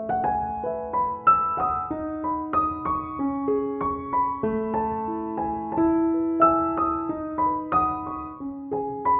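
Background piano music: a gentle melody of struck notes over held lower notes, several notes a second.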